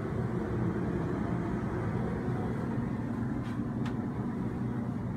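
Steady low mechanical rumble of onboard yacht machinery, with a couple of faint clicks about three and a half seconds in.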